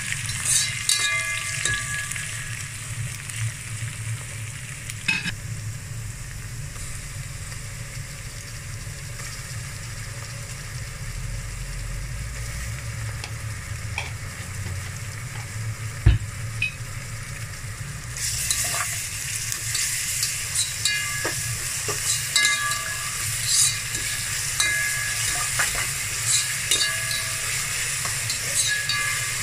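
Sliced onions, green chillies, curry leaves and whole spices sizzling in hot oil in a metal pot, with a metal spoon scraping and stirring at the start and again through the last ten seconds. A single sharp knock about halfway through.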